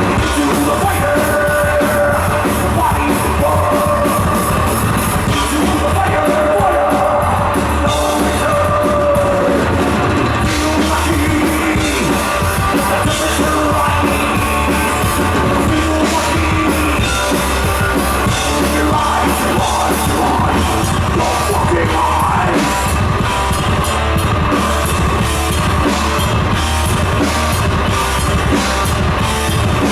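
A heavy metal band playing live, loud and unbroken: distorted electric guitars, bass and a drum kit, with a vocalist singing and shouting.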